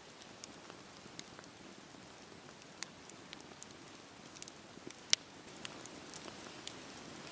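Campfire burning with irregular sharp crackles and pops over a steady soft hiss; the loudest pop comes about five seconds in.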